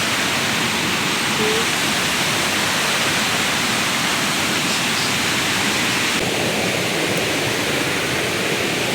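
A steady rushing hiss with no distinct events, its upper part shifting slightly about six seconds in.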